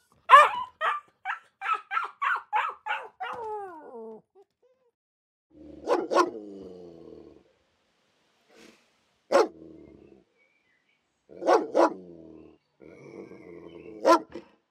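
Dog barking: a quick run of about eight high yapping barks that trails off into a falling whine. Then come single and paired barks with growling between them.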